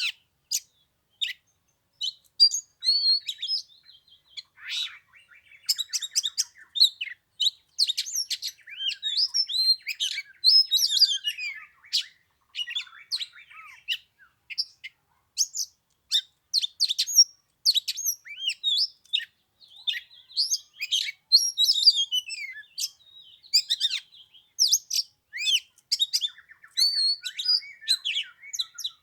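Oriental magpie-robin singing a varied run of sweet whistles, chirps and rapid trills in phrases with short pauses, all high-pitched.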